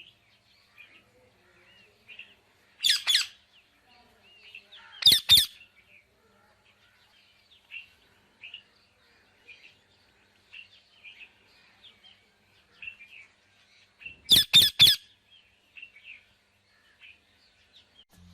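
A parrot giving loud, harsh squawks in three bouts, about three, five and fourteen seconds in, the last a quick run of three. Soft chirps and chatter fill the gaps between them.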